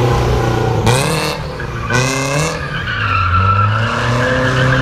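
Car engine revving hard twice, its pitch climbing each time, then tires squealing in a long, steady screech: a car drifting.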